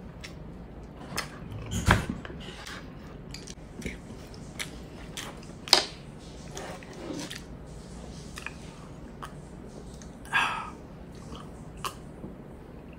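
Close-up chewing of pork hock and rice: wet smacking and clicking mouth sounds, with a few louder smacks about two, six and ten seconds in.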